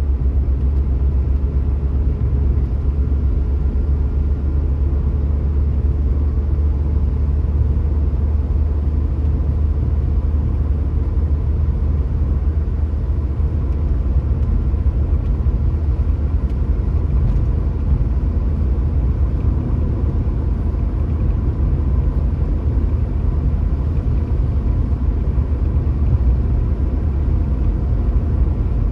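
A car driving at a steady speed: an even, low road and engine rumble with no change.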